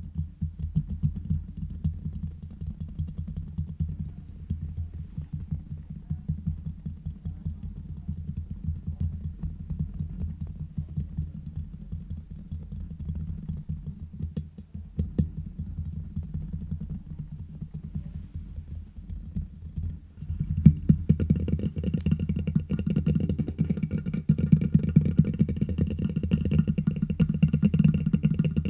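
Fast tapping and scratching directly on a microphone: a dense, unbroken stream of rapid, dull taps. About twenty seconds in it gets louder and fuller.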